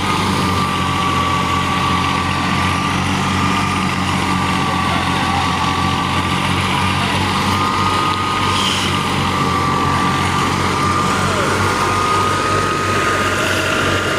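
Al-Ghazi tractor's diesel engine running steadily, driving a wheat thresher, with a steady high whine over the engine's hum.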